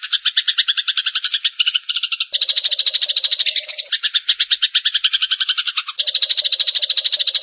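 A rapid, pulsing animal trill of about ten pulses a second, repeated without a break, from a bird or insect call of the kind used as master song for cendet. Its character shifts about two and a half seconds in and again near the end, where a lower buzzing layer comes and goes.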